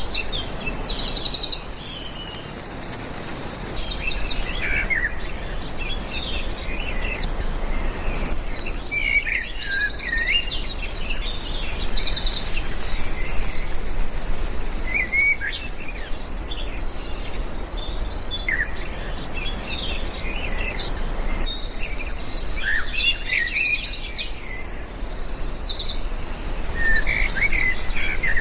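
Many birds chirping and calling over one another, with repeated fast trills, over a steady background hiss.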